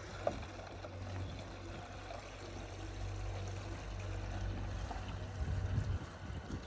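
A diesel engine running steadily at a low, even pitch, fading out about six seconds in.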